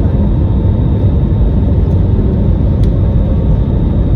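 Steady, loud low rumble heard inside the cabin of an Airbus A320-200 during take-off: the noise of its jet engines and airframe.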